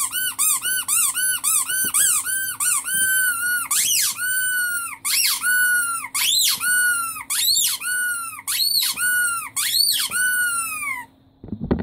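Rubber squeaky toy squeezed over and over, each squeak rising and falling in pitch. The squeezes are quick at first, about three a second, then slower and longer from about four seconds in. They stop shortly before the end, where there is a brief low rustle.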